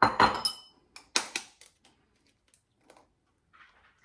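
A bowl and cutlery being handled: a loud clatter at the start, then a few sharp knocks just after a second in and light scattered clinks.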